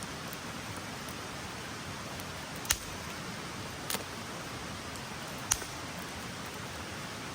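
Steady hiss of rain falling, with three short sharp cracks or ticks about three, four and five and a half seconds in.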